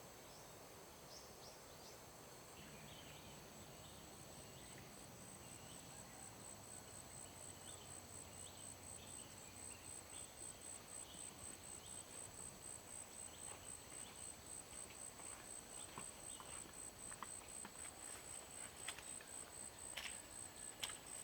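Insects calling near a riverbank: a faint, high-pitched steady trill that pulses evenly and grows gradually louder, with scattered short chirps. A few sharp knocks come near the end.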